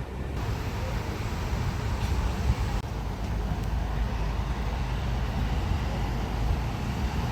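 A vehicle's engine running close by: a steady low rumble with road or outdoor noise over it.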